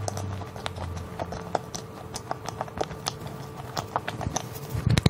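Close-miked chewing of a mammoth roll, a cream-filled bread with a crumbly topping, with the mouth closed: a run of small irregular wet clicks and smacks, with a soft low thump near the end.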